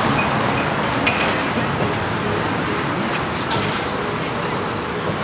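Steady street traffic noise: a continuous hum of passing road vehicles.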